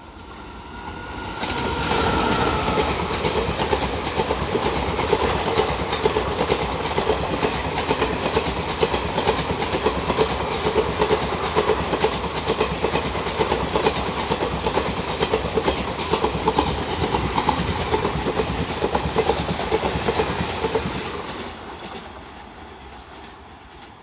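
Express passenger train hauled by an Indian Railways WAP-4 electric locomotive running through a station at speed: a loud rumble with rapid clickety-clack of wheels over the rail joints. It builds over the first two seconds as the locomotive arrives, holds steady while the long rake of coaches passes, and fades over the last few seconds as the train recedes.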